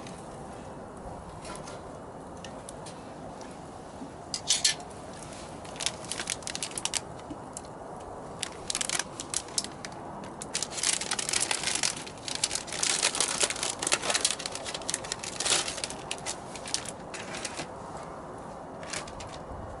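Squid grilling over a strong wood fire: a steady hiss with sharp crackles and pops that come in bursts, thickest in the middle of the stretch.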